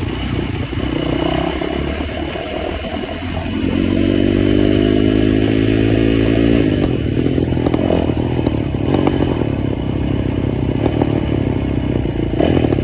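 Motorcycle engine running, held at a steady pitch for about three seconds in the middle, then running rougher with clattering.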